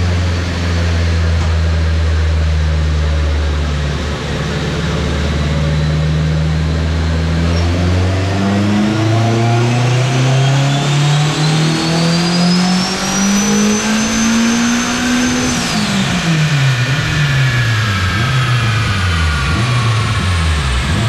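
Turbocharged Honda K20 four-cylinder in a Civic EG hatchback making a wide-open-throttle pull on a chassis dyno. It runs steadily for several seconds, then the engine note climbs for about seven seconds with a high whine rising alongside it, and both cut off sharply as the throttle closes, with the revs falling away.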